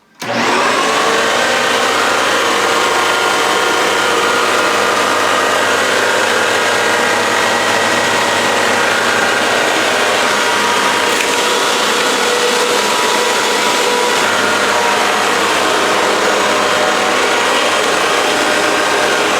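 Hoover WindTunnel T-Series Pet Rewind Plus bagless upright vacuum cleaner switched on and running steadily at full power, a loud even rush with a faint whine over it.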